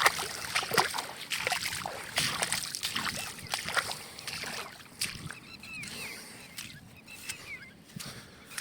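Irregular rustling and splashing noise with many short clicks. From about five seconds in, a bird joins, calling over and over in short curved notes.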